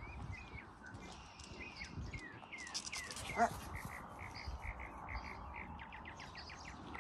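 Songbirds chirping and calling, with gliding calls early on and a quick run of repeated chirps in the second half. A brief louder call stands out a little past halfway.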